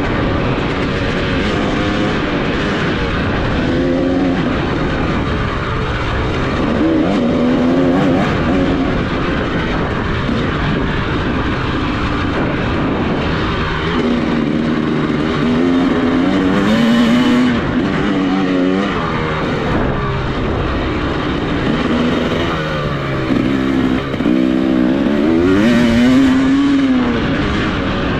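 Off-road motorcycle engine being ridden hard, revving up and falling back again and again as the throttle opens and closes and it shifts through gears, over a steady rush of wind and noise.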